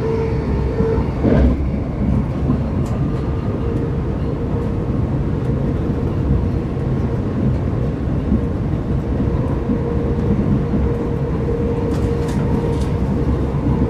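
Running noise heard from inside a Class 387/1 Electrostar electric multiple unit: a steady rumble of the wheels on the track with a steady hum running through it and a few faint clicks.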